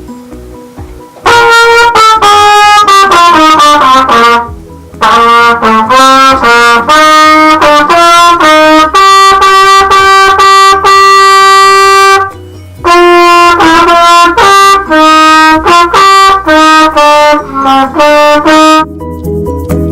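Trumpet played solo and loud, close to the microphone: three phrases of quick notes, the first a falling run, the middle one with a long held note, broken by two short pauses for breath.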